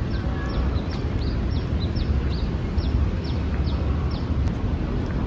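A small bird giving a rapid string of short, high chirps, each sliding downward, about three a second, that stops about four seconds in. Under it runs a steady low outdoor rumble.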